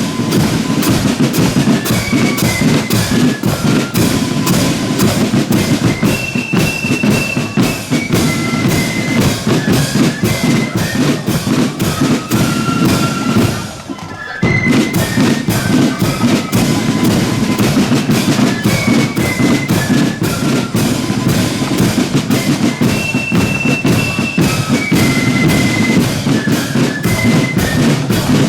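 Marching flute band playing a tune over bass drum and snare drums, the high melody of held notes riding on dense, fast drumming. The whole band drops away for about a second halfway through, then comes straight back in.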